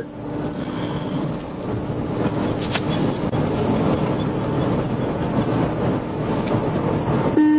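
Steady wind and road noise inside a police cruiser travelling at about 100 mph during a pursuit: an even rushing hiss.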